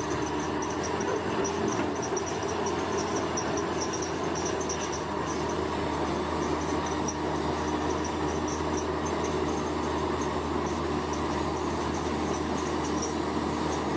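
Bulldozer's diesel engine running with a steady hum, with a high-pitched pulsing chirp over it that fades somewhat after the first half.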